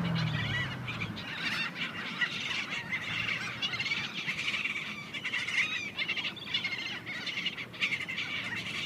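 A large flock of gulls calling over one another in a constant chatter of many short, overlapping cries, squabbling over thrown bread.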